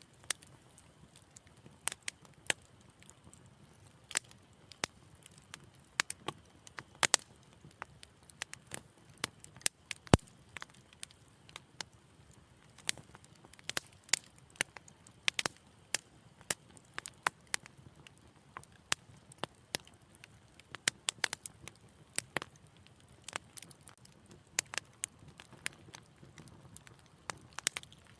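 Wood fire crackling softly in a fireplace: irregular sharp pops and snaps, several a second at times, over a faint low hiss, with one louder pop about ten seconds in.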